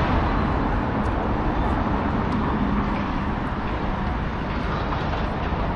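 Steady street noise of road traffic.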